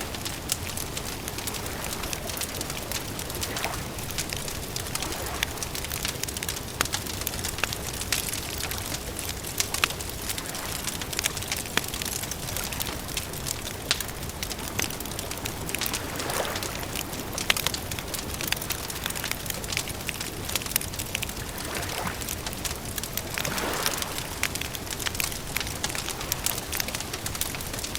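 Campfire crackling steadily: many small, sharp pops over a constant hiss.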